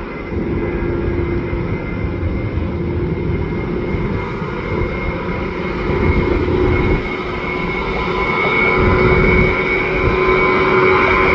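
A Boeing 737's jet engines: a steady whine over a rumble, slowly growing louder.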